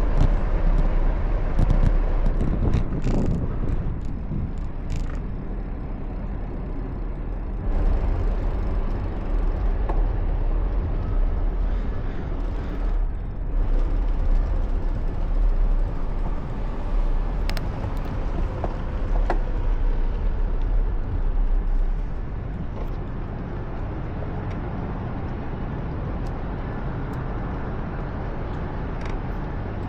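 City street traffic heard from a moving bicycle, with a steady low rumble throughout and a few brief clicks. The rumble eases off somewhat about two-thirds of the way through.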